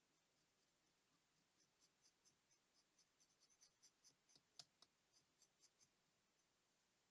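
Faint, quick clicks and light scratches of small hand tools working on watch parts, about four or five a second, with one sharper click about two-thirds of the way through.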